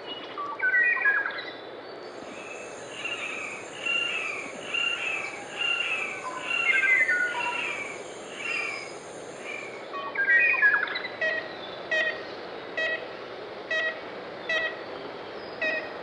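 Forest birdsong: several birds chirping and singing over one another, with a high steady buzz from about two seconds in until about ten seconds in. After that, one bird repeats a short call about twice a second.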